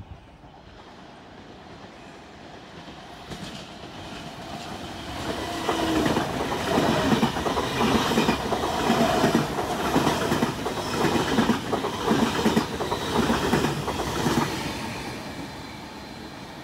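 Stainless-steel double-deck electric suburban train passing close along the platform, its wheels clattering in a steady rhythm over the rail joints. The sound builds from about four seconds in, stays loud for about eight seconds, then fades as the train moves away.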